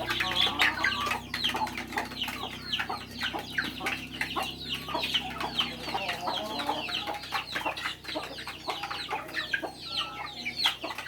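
A flock of chickens clucking and calling nonstop at feeding time: many short, quickly falling calls overlapping one another, mixed with a stream of sharp clicks, over a faint steady low hum.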